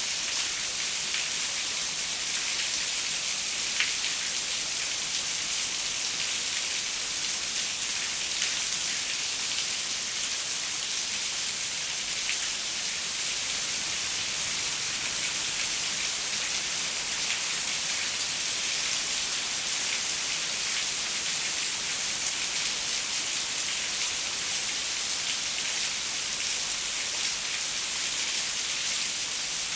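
Steady rain falling on a window, an even hiss with many small drop ticks.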